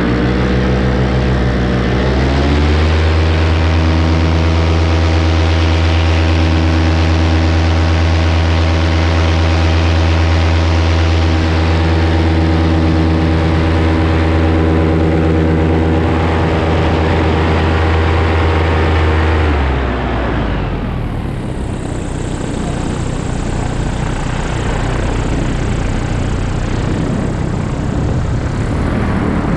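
Paramotor engine and propeller in flight: the pitch rises about two seconds in as the throttle opens, holds steady at high power, then falls away sharply near twenty seconds to a low throttle setting under wind noise.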